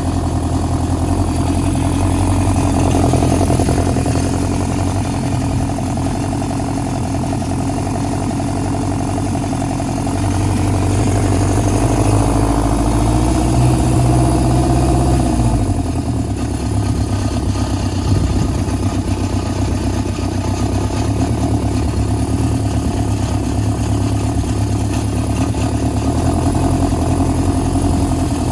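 1977 Honda CB750K's air-cooled inline-four engine idling on the choke after a cold start, held at a fast idle. Its speed creeps up, then drops sharply about halfway through and settles into a steady, lower idle.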